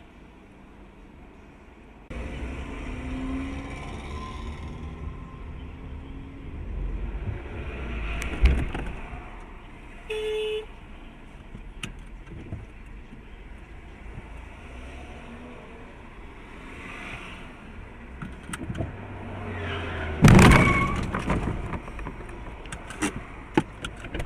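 Car traffic recording: steady engine and road rumble, a sharp knock about eight seconds in, and a half-second steady tone a couple of seconds later. About twenty seconds in comes a sudden loud crash impact with a clattering tail, typical of a vehicle collision.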